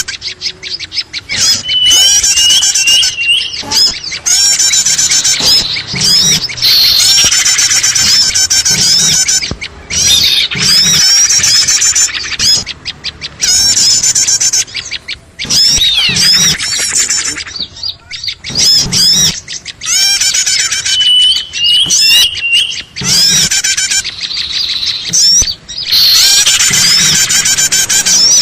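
A dense, loud chatter of many small birds' chirps and calls overlapping almost without pause, with short runs of repeated notes twice. It is a bird-lure ('pikat') track used to draw small birds in.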